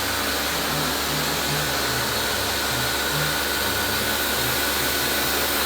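Steady loud rushing noise like a fan or blower, with low bass notes of background music under it.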